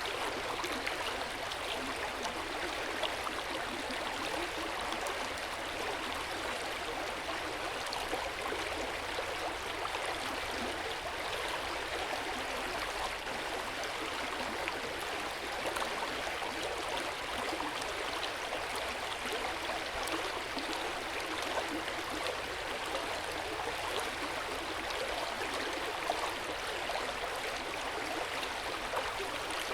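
Hot-spring water running steadily into an open-air bath, an even, unbroken splashing.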